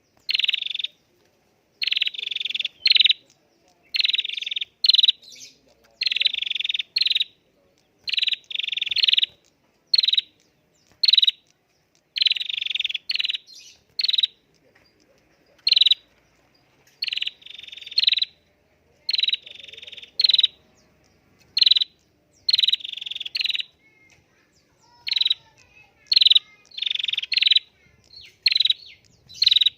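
A prinia (prenjak) calling over and over: short sharp notes alternating with longer buzzy chattering phrases, about one every second, with a brief pause about two-thirds of the way through.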